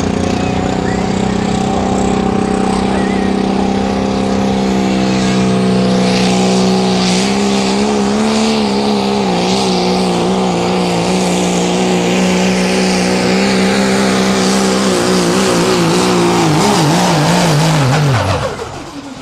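Diesel 4x4 pickup engine held at full throttle pulling a weighted sled, a loud steady drone. The pitch starts to waver about eight seconds in, and near the end the throttle is cut and the engine note drops away quickly.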